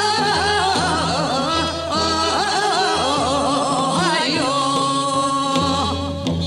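Korean traditional folk music: singing with strongly wavering, ornamented pitch over a steady instrumental accompaniment.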